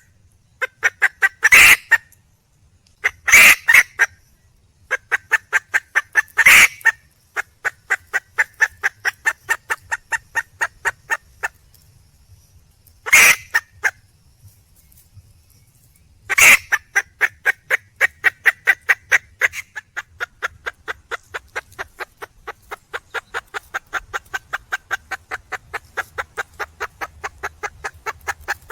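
Red junglefowl hen calling for a male: several loud, harsh calls, each followed by a long run of rapid, evenly spaced clucks.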